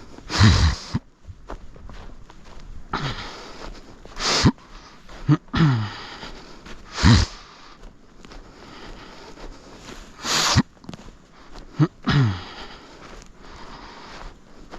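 A person's breathing: loud, short sniffs and exhales every two to three seconds, a few ending in a brief grunt that falls in pitch.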